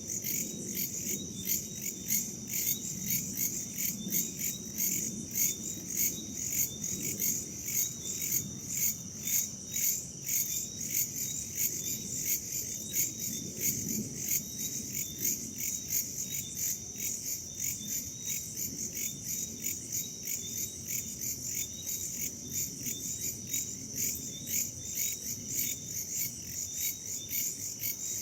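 Night chorus of crickets and other insects: dense, high-pitched chirping that pulses in an even rhythm without a break. A soft low rumble of wind runs underneath.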